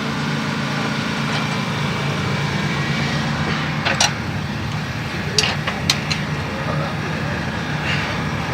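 An engine idling steadily, with a few sharp knocks about four, five and a half and six seconds in.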